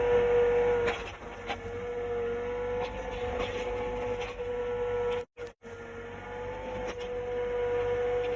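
A machine's motor running steadily with a constant whining tone, with a few small clicks and knocks; the sound drops out for a moment about five seconds in.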